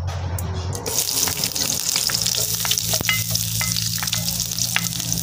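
Sliced shallots and garlic frying in hot oil in a pan: a sizzle that starts suddenly about a second in as they hit the oil, then holds steady with scattered crackles.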